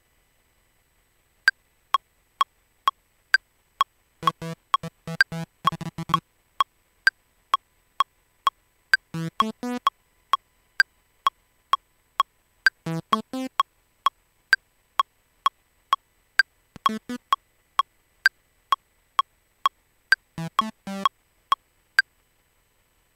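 A metronome clicks steadily at about two beats a second, with a higher-pitched click on every fourth beat. Over it a synthesizer plays short plucky notes in five brief bursts, a trance riff being tried out in time with the click.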